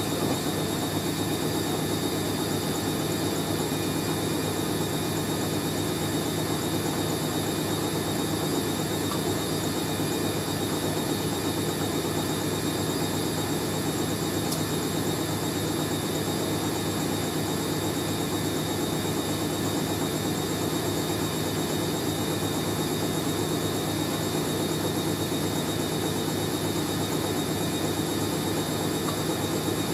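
Hoover A3060 Electronic 1100 top-loading washing machine in a steady intermediate spin, motor and drum running evenly with a constant whine. The load is well balanced.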